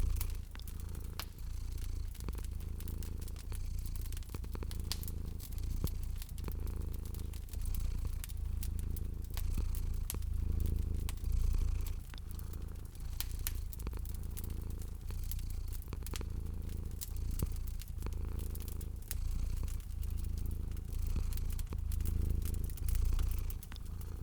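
A cat purring, a deep rumble that swells and eases in a slow, regular rhythm with its breathing, over a fire crackling with frequent small sharp pops.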